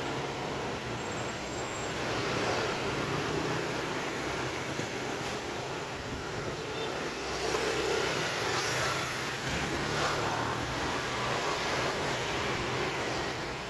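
Street ambience with a motor vehicle engine running and passing, a steady low hum over a noisy wash that swells a little past the middle.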